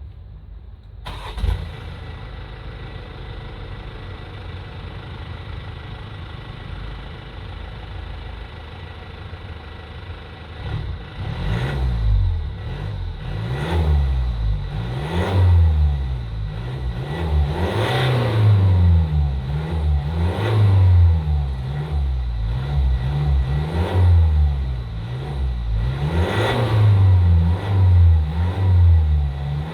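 BMW 118d's four-cylinder turbodiesel, heard at the exhaust, starting about a second in and settling into a steady idle. From about eleven seconds in it is revved again and again, the pitch rising and falling with each blip.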